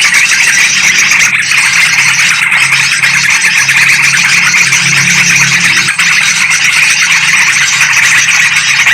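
Dense, unbroken chatter of many bulbuls calling over one another: yellow-vented bulbuls and sooty-headed bulbuls, with a low steady hum underneath.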